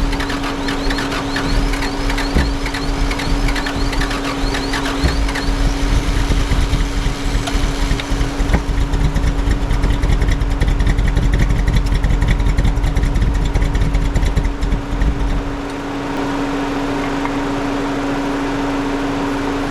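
Ford 250 crossflow six-cylinder engine in a Toyota Dyna truck running with a heavy, pulsing low rumble. The rumble drops away about fifteen seconds in, leaving a lighter steady running sound.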